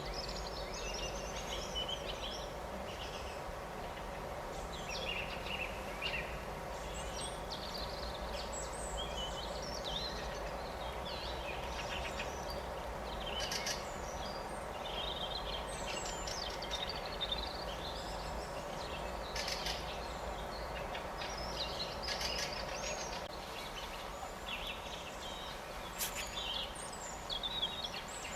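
Several small birds chirping and singing in overlapping, quick phrases over a steady low background noise, with a few sharp clicks.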